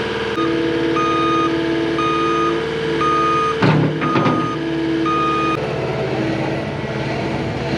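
Cat 259D compact track loader reversing: its backup alarm beeps about once a second over the steady running of its diesel engine, with a couple of clunks about halfway through. The beeping stops a little past halfway while the engine keeps running.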